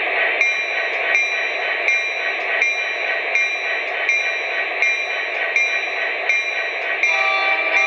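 MTH DCS onboard sound system in an HO-scale SD70ACe model playing diesel locomotive sound through its small speaker: a steady running noise with a short ringing tick repeating about every 0.7 s. Near the end, several steady tones join in briefly.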